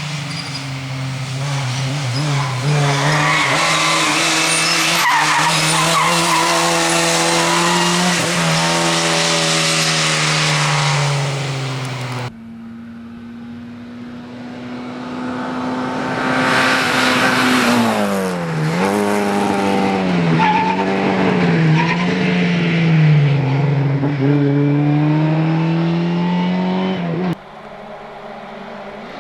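Lada 2107 rally car's engine pulling hard, its pitch climbing through each gear and dropping at every shift and lift. The sound jumps abruptly about twelve seconds in and again near the end.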